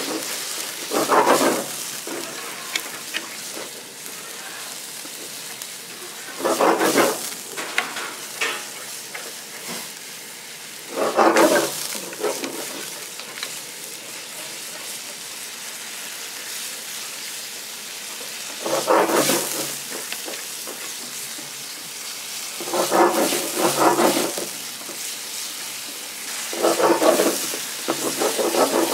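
Food sizzling as it fries, a steady hiss broken by about seven louder bursts of a second or so each.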